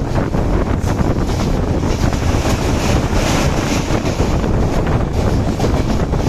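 Wind rushing over the microphone on top of the steady low rumble of a moving train running at speed.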